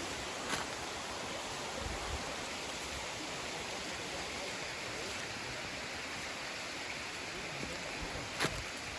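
Mountain valley stream flowing steadily, with two brief clicks, one about half a second in and one near the end.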